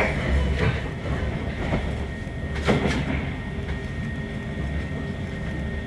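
Passenger train running along the line, heard from inside the carriage: a steady low rumble with a few sharp clicks and knocks from the wheels and track in the first three seconds, and a thin, steady high whine that sets in about two seconds in.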